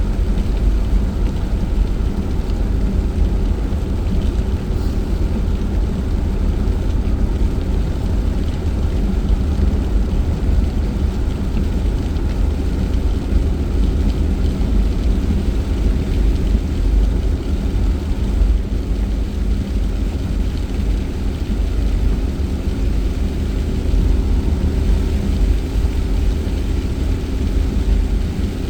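Steady engine and road rumble inside a moving car's cabin, with tyre hiss from a wet road.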